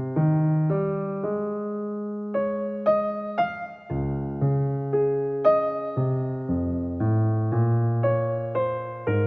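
Background music: an electric piano playing a slow, gentle melody of single struck notes over low sustained bass notes.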